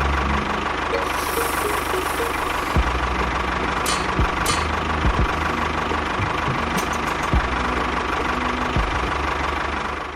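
Motor of a DIY mini tractor running steadily with a faint whine, with a few sharp knocks; it cuts off suddenly near the end.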